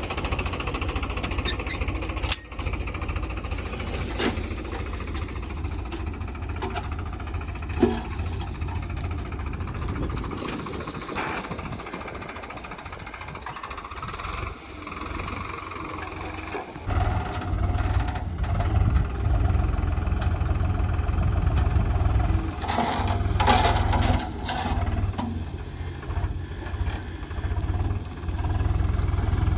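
Diesel engine of heavy earthmoving machinery running with a deep low rumble, with a few sharp knocks over it. The rumble eases off around ten seconds in and comes back stronger about seventeen seconds in.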